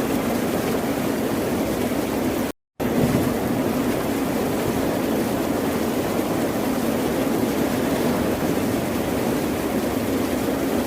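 Steady rush of ocean surf, even in level with no distinct wave swells. About two and a half seconds in it cuts out to silence for a fraction of a second, then resumes.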